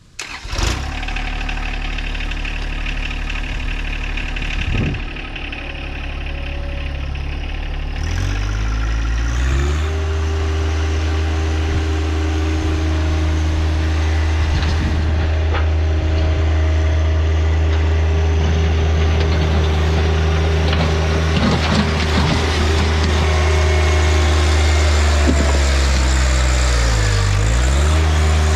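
John Deere 1025R compact tractor's three-cylinder diesel engine running, first at a steady low idle, then throttled up about eight seconds in to a steady higher speed. Near the end the revs dip briefly and recover.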